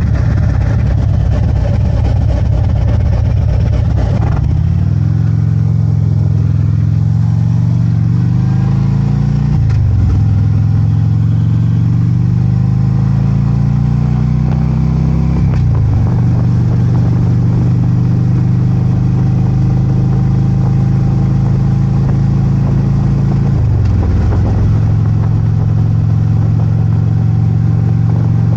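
Harley-Davidson Ultra Limited's V-twin engine under way, loud and accelerating through the gears: the pitch climbs and then dips at each of four gear changes, rising steeply after the first ones and holding level in the later stretches.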